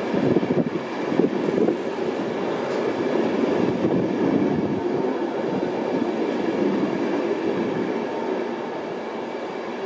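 LNER InterCity 225 Mark 4 passenger coaches rolling along the platform, their wheels running steadily on the track. Louder for the first couple of seconds, then gradually quieter near the end.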